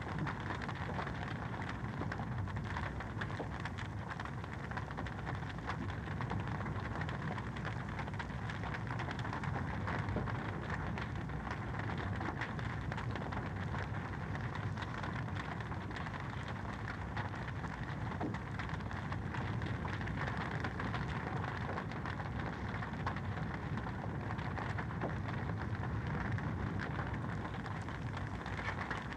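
Fireplace fire crackling steadily: a continuous hiss and low rumble of the flames, dotted with many small snaps and pops.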